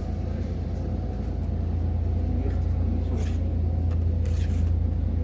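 Steady low rumble that grows slightly louder, with a few faint clicks of something being handled.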